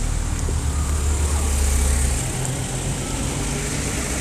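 Motor vehicle engine and road noise: a deep rumble under a steady hiss, with the rumble dropping away about two seconds in.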